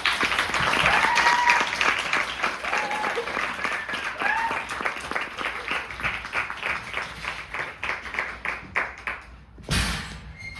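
Audience applauding, with a few rising-and-falling whoops in the first half; the clapping thins to scattered claps and a single loud bump sounds near the end.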